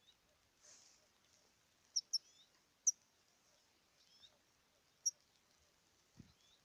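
European goldfinch giving a few short, sharp high chirps, scattered and spaced apart, two close together about two seconds in and a single one about five seconds in, with a soft low thump near the end.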